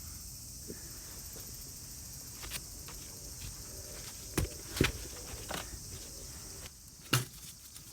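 Steady high-pitched insect chirring, with a handful of sharp knocks and clinks spread across it; the loudest come about four and a half and five seconds in, and another near the end.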